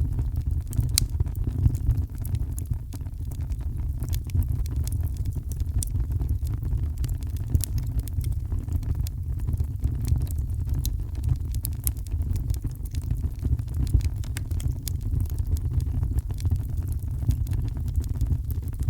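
Heavy rain as a steady deep rumbling wash, with a wood fire crackling in frequent sharp pops scattered throughout.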